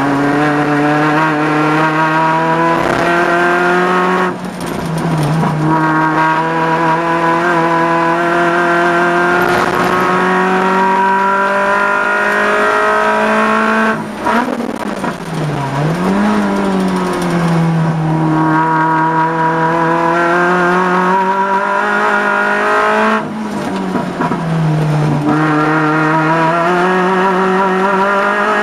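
Peugeot 106 race car's four-cylinder engine heard from inside the cabin, pulling hard with revs climbing slowly in each gear. There is an upshift about four seconds in, a lift and downshift with a dip and rise in revs around the middle, and another upshift about four-fifths of the way through.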